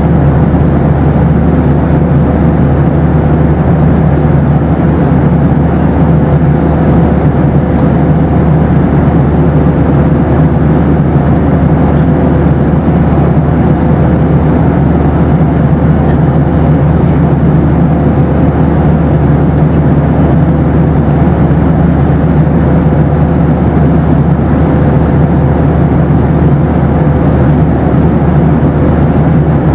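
Steady roar of a Boeing 737 airliner's cabin noise in flight, with a faint steady tone running through it.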